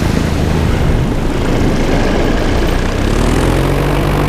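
Paramotor engine and propeller running steadily in flight, with wind rush on the helmet microphone; the engine note rises slightly about three seconds in.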